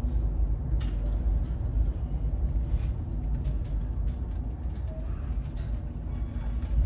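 Storm wind buffeting the microphone: a low, steady rumble with a faint rushing hiss above it.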